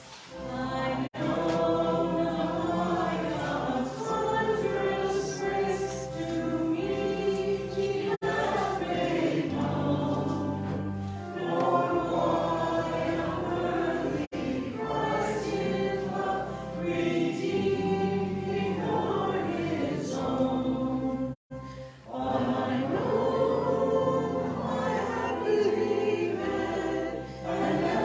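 Choir singing a hymn over sustained low accompaniment, with the sound cutting out for a split second about two-thirds of the way through.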